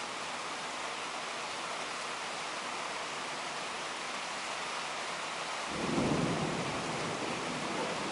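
Heavy rain falling in a steady hiss during a thunderstorm downpour; about two-thirds of the way through, thunder breaks in with a low rumble that swells and rolls on.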